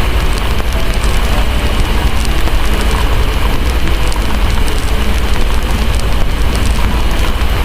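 Steady heavy rain with a constant deep rumble underneath, and the small pops and crackles of a wood fire scattered throughout.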